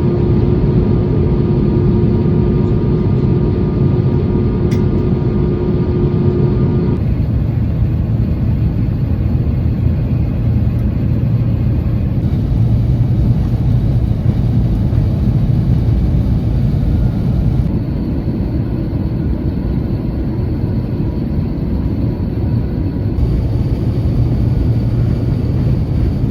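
Steady low rumble inside an airliner cabin after landing. A steady hum tone is heard over it for the first several seconds.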